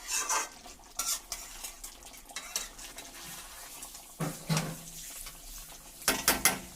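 A utensil stirring and scraping through a pot of simmering chicken curry in irregular strokes, over a soft sizzle. About six seconds in, a quick run of sharp knocks against the pot.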